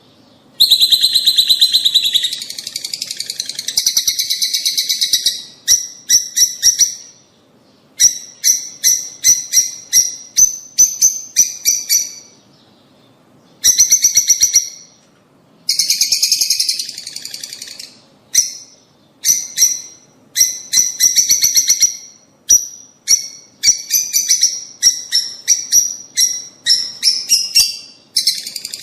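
Lovebirds calling: loud, shrill chirps in fast series, broken by dense bursts of chatter and a few short pauses.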